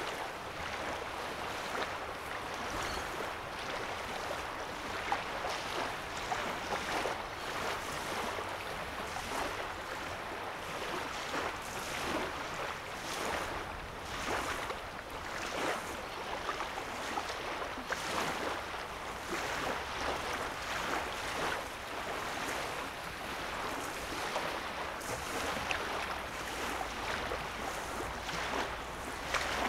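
Small waves on a calm lake lapping against the sandy shoreline, in a steady stream of soft, irregular splashes.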